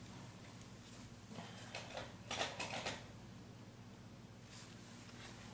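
Faint rustling and a few light clicks of painting supplies being handled, mostly in a cluster of brief noises a little after a second in, over a low steady hum.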